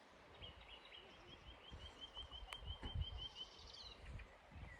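A bird singing a fast series of short, repeated chirps, about five a second for some three seconds, with faint low rumbling underneath and a single click partway through.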